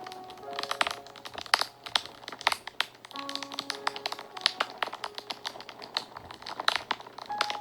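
Fire crackling, with frequent sharp pops and snaps at irregular intervals, over soft background music of held notes.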